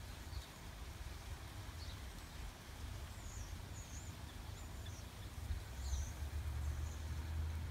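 Small birds chirping faintly, a handful of short, high calls, over a steady low rumble that grows louder in the second half.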